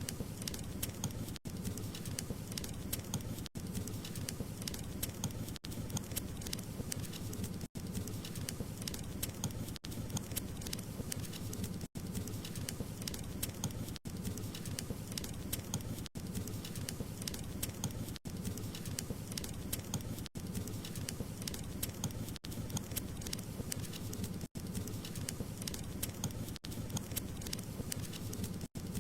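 Wood fire crackling steadily, dense small pops and snaps over a low rumble of flame, with a brief dropout about every two seconds.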